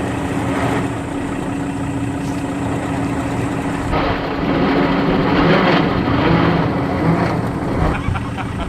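A 4x4's engine runs with a steady hum while the vehicle is bogged in deep wheel ruts. About four seconds in, the sound turns louder and rougher.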